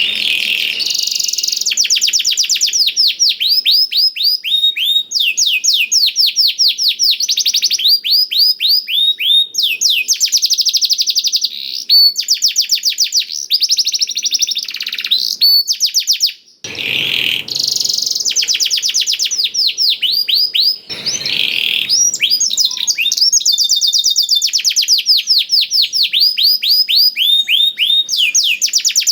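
Domestic canary singing a long, continuous song tutored with blackthroat phrases: fast runs of repeated down-slurred whistled notes and rolling trills, with a brief pause about halfway through.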